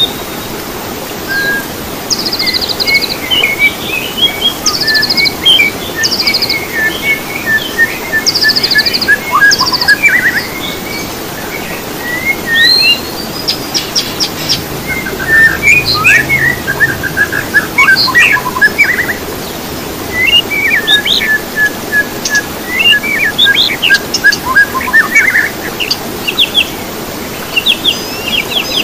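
Songbirds chirping and singing: short rapid trills, quick rising whistles and runs of repeated notes, one after another, over a steady low hiss.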